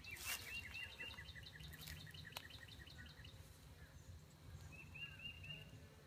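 A small bird trilling: a quick run of high chirps, about six a second, for some three seconds, then a shorter run about five seconds in. Under it runs the faint, steady low hum of honey bees at the open hive, with one faint click midway.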